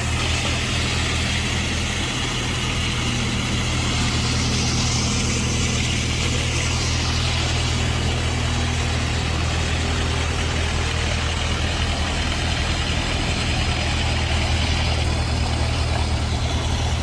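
Heavy construction machine's engine running steadily at idle, a low, even hum.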